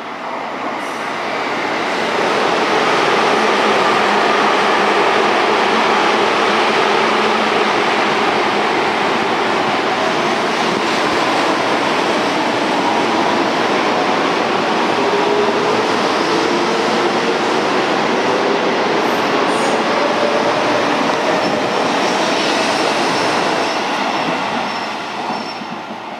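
Seibu 20000 series electric train pulling out of the station and accelerating past: wheels and running gear rumble loudly on the rails. The VVVF inverter traction motors give a whine that rises in pitch as the train gathers speed, and the sound falls away near the end as the train moves off.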